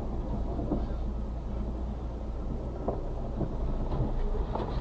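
Suzuki Carry kei truck's 660cc three-cylinder engine running steadily at low revs, heard from inside the cab, with a few faint knocks as the truck creeps over rough ground.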